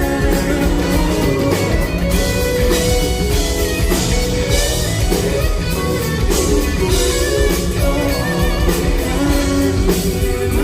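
Live pop-rock band playing an instrumental passage, with guitar over a steady drum-kit beat and little or no singing.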